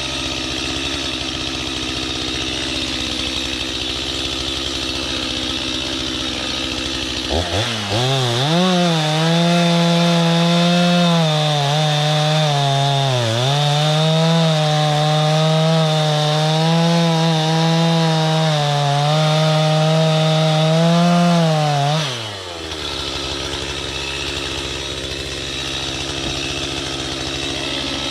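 Two-stroke chainsaw idling, then throttled up to full speed about seven seconds in and held there for some fifteen seconds while cutting wood, dipping briefly once, before dropping back to idle; it revs up again at the very end.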